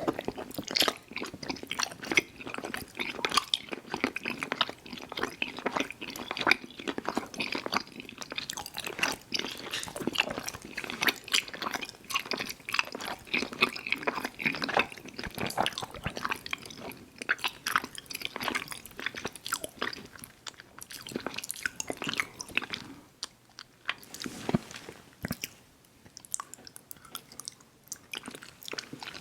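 Close-miked wet chewing and mouth smacking of soft, sticky fruit chew candy, irregular clicks and squelches, easing off briefly a little past the two-thirds mark before picking up again.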